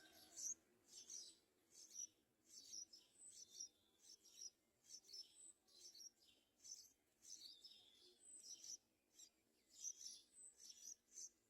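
Yellow-vented bulbul nestling's faint, high-pitched begging chirps, short calls repeated one or two a second.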